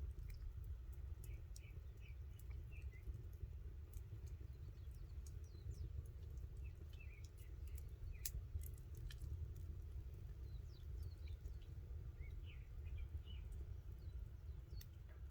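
Small birds chirping in short, scattered calls over a steady low rumble, with a few sharp clicks in between.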